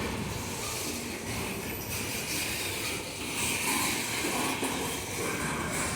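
Loaded iron-ore freight train rolling past slowly as it starts to pick up speed: a steady rolling noise of heavy wagons on the rails.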